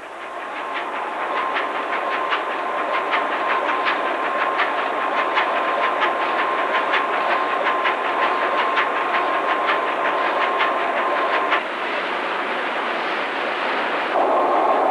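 Large two-stroke marine diesel engine running up to speed on a test bed: a steady mechanical clatter with a regular knock about three times a second and a steady whine, growing louder in the first couple of seconds. The whine drops out about three-quarters of the way through.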